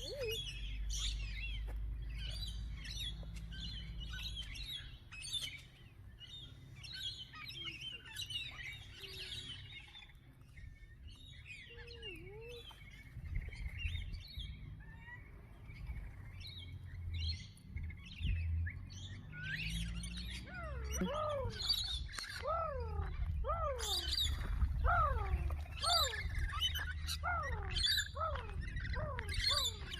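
Flock of small birds chirping and twittering in many short calls. From about twenty seconds in, a rapid series of quick downward-sliding whistled calls joins them, repeated many times.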